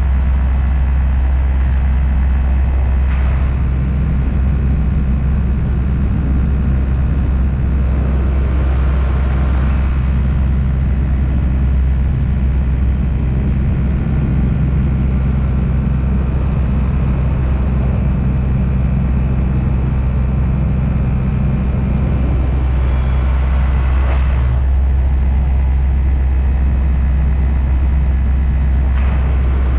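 Paramotor engine and propeller running at a steady throttle, a constant loud low drone, with a few brief swells of noise.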